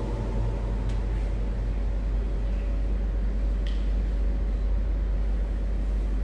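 Steady low hum with a background hiss, and a couple of faint clicks, between lines of recitation.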